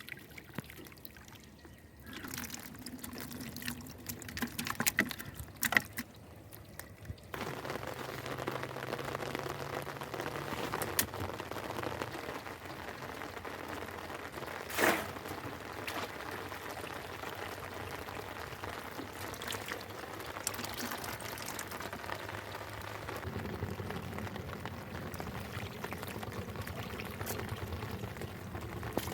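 Water splashing and pouring: a few scattered splashes at first, then a steady run of pouring water from several seconds in, with one sharp splash about halfway through.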